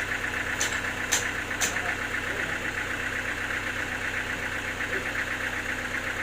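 A sawmill's engine running steadily at idle with a fast, even rattling pulse, and three sharp clicks about a second in.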